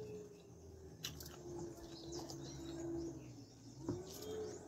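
Mouth sounds of someone eating loaded cheese fries by hand: quiet chewing with a few sharp lip-smack clicks, over a faint steady hum and some faint high chirps.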